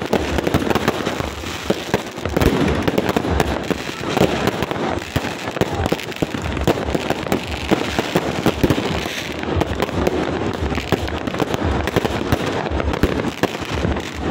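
Fireworks going off continuously: a dense crackle of many sharp pops and bangs, with no pause.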